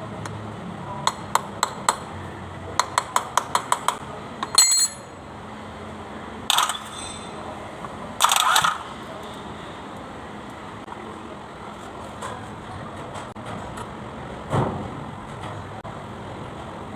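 Metal tools and engine parts clinking and tapping against each other during engine repair work. There are a few single clinks, then a quick run of about seven taps a second, then several short noisy bursts and a dull knock later on, over a steady low background hum.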